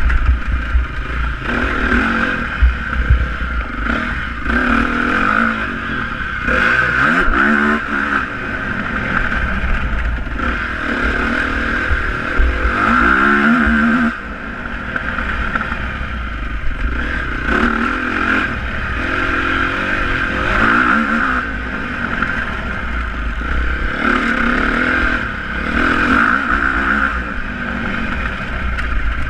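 Motocross motorcycle engines running and revving, the pitch rising and falling again and again as the bikes accelerate and ease off.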